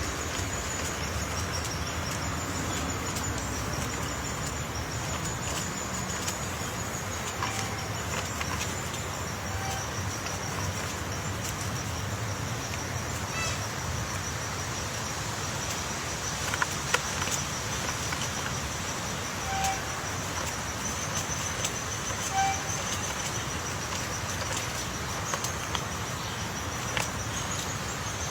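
A steady, high-pitched insect trill over outdoor background noise, with a few short single-note calls and some faint scattered taps.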